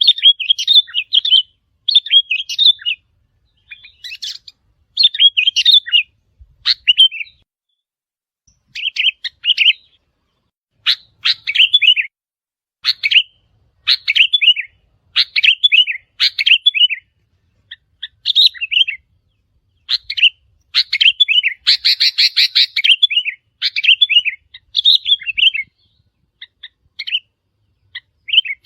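Sooty-headed bulbul calling: short, bubbly chirping phrases about a second long, repeated again and again with brief pauses. A little after two-thirds of the way through comes one louder, harsher phrase.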